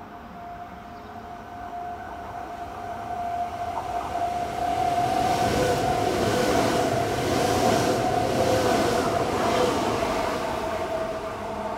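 Semboku Rapid Railway electric commuter train running through the station. Its rumble builds over about five seconds, holds, then eases off near the end, with a steady whine over it.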